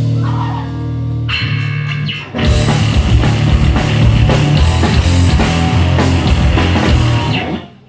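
Hardcore band playing live, loud distorted electric guitars and drums. Held ringing chords for about two seconds, then the full band with drums crashes back in and plays until a sudden stop near the end, the close of the song.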